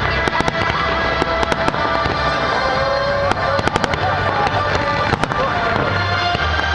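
Fireworks bursting and crackling in quick, irregular succession over the show's accompanying music.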